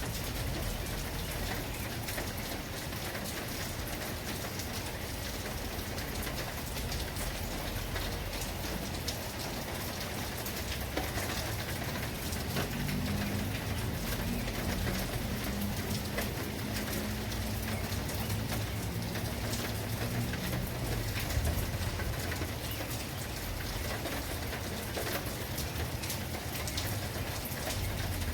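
Steady rain falling on hard surfaces, with the ticks of separate drops throughout. A low-pitched sound joins in for several seconds in the middle.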